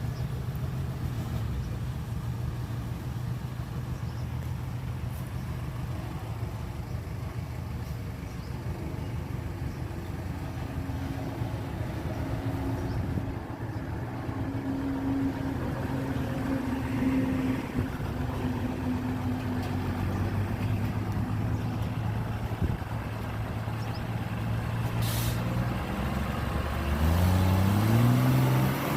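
Heavy diesel engine of earthmoving machinery running under load, its pitch shifting, then revving up sharply near the end. A short hiss comes a few seconds before the end.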